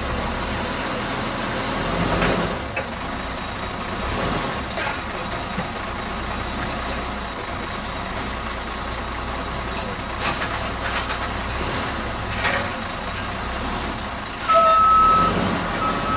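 McNeilus Autoreach side-loader garbage truck running steadily, with a few sharp clanks now and then. Near the end its reversing beeper starts, first as a long tone and then as repeated beeps.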